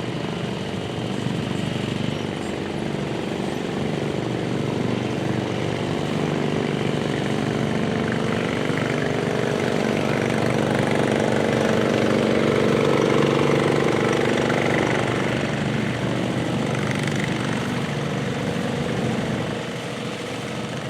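Garden tractor engine running hard and steadily, growing louder toward the middle and then easing off.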